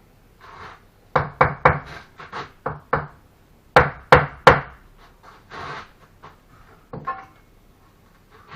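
A brick being tapped down into its mortar bed while laying a fireplace surround: a run of sharp knocks, the three loudest coming close together about four seconds in.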